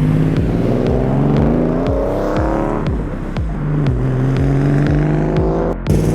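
A car accelerating hard away, its engine pitch rising through one gear, dropping at an upshift about three seconds in, and rising again through the next, over the steady low drone of another engine.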